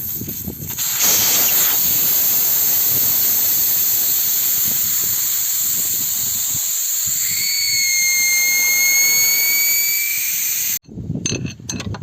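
Compressed air hissing loudly and steadily for about ten seconds, with a thin whistle joining about seven seconds in, then cutting off abruptly.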